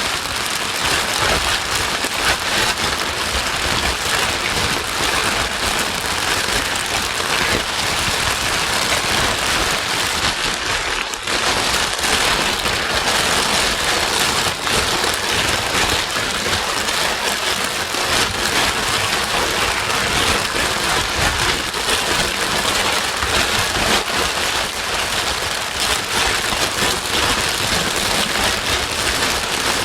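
Steady white noise: an even, rain-like hiss at a constant level, used to soothe a crying baby. It dips briefly about eleven seconds in.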